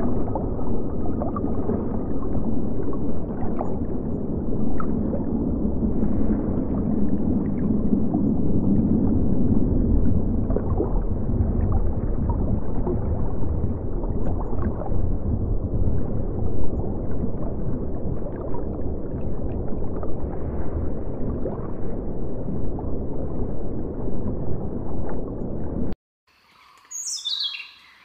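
Muffled underwater noise: a steady low rush with faint scattered clicks. It cuts off shortly before the end, and a budgerigar gives one short chirp.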